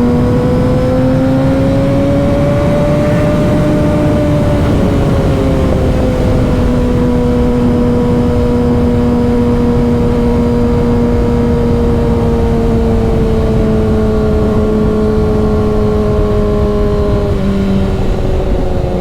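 Motorcycle engine running under steady throttle while riding, its pitch rising a little over the first few seconds and then slowly easing down, with constant wind and road noise.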